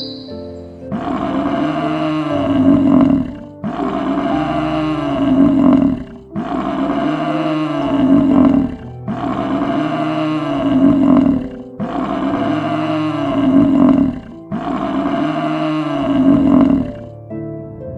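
A big cat roaring: six long roars, each alike and about two and a half seconds long, coming at an even pace.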